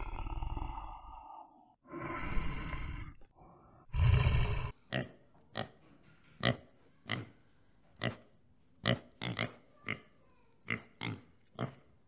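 Three drawn-out growling calls from a brown bear, the last and loudest about four seconds in, then a pig grunting in short, sharp grunts about one or two a second while it roots.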